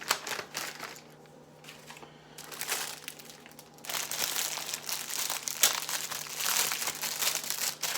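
Plastic crinkling and rustling from an IV piggyback bag and its tubing being handled, faint for the first few seconds and then busy from about four seconds in. A faint steady low hum runs underneath.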